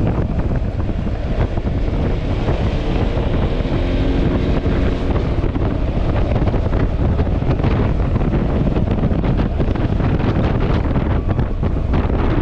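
Wind buffeting the microphone on a moving Yamaha Xmax scooter, a steady loud rush with the scooter's engine and road noise beneath it.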